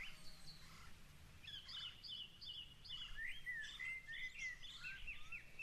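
Faint birdsong: a string of quick, short chirps and twitters, some sweeping down in pitch.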